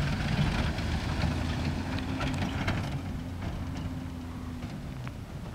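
1962 Rover P4 110's straight-six engine running as the car drives by and pulls away over a dirt track, its sound fading steadily, with a few scattered sharp clicks.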